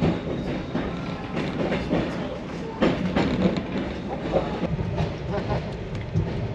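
Passenger train running on the rails: a steady rumble with the clickety-clack of wheels over rail joints and sharp knocks, the loudest near the start and about three seconds in.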